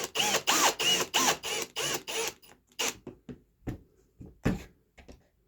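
Drill driving pocket-hole screws into wood in quick trigger pulses, the motor whine rising and falling with each pulse for about two seconds, then thinning to scattered short clicks and brief spins as the screw seats.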